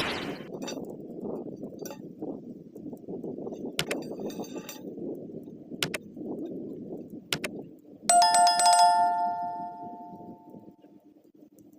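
Low machinery rumble with a few sharp clicks, then one loud metallic clang about eight seconds in that rings with several clear tones and fades over about three seconds.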